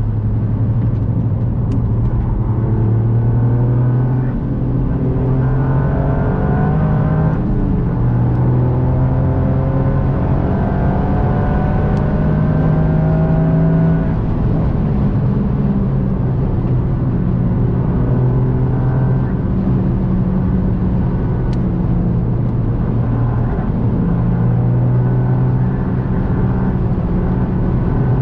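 Toyota GR Yaris's turbocharged three-cylinder engine pulling hard through the gears. Its note rises in pitch several times and drops back at each gear change, about four seconds in, again near seven seconds and again near fourteen seconds, then carries on with smaller rises and falls.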